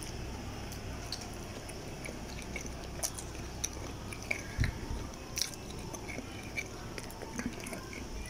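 A person biting into and chewing food, with scattered small mouth clicks and a soft low thump about four and a half seconds in, over a steady low hum.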